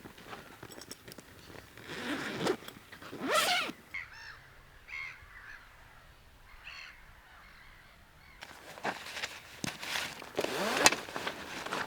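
Rustling and scuffing of someone moving about outdoors, with a quick sweeping squeak about three seconds in. Then a quieter stretch in which a bird calls three times, before the rustling and steps start again.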